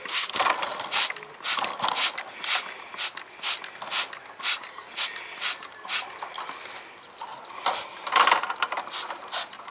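Hand trigger spray bottle squirting water onto young birds, in short hissing sprays about two a second, to wash them.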